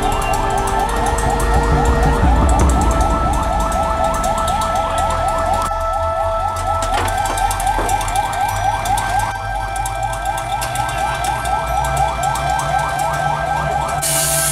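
Emergency vehicle siren in a rapid yelp, about three rising sweeps a second, over a low rumble of engines in traffic.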